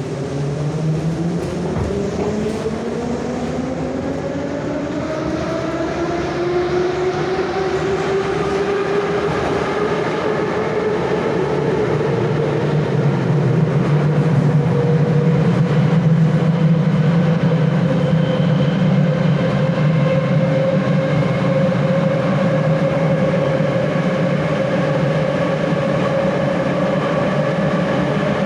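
Moscow metro "Nomernoy" (81-717/714) train accelerating, heard from inside the car: the traction motor and gear whine rises steadily in pitch for about twelve seconds, then levels off at running speed over a steady rumble of the wheels.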